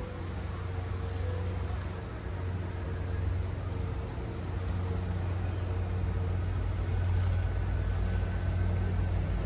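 Diesel-hauled commuter train, a steady low rumble with a faint steady hum, slowly growing a little louder as it draws nearer.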